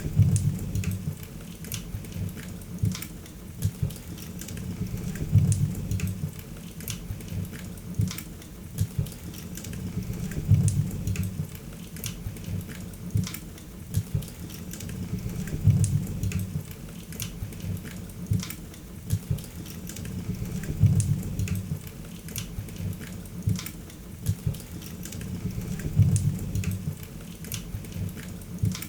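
Wood fire crackling and popping, with frequent sharp snaps over a soft hiss, and a low rumble of flame that swells about every five seconds.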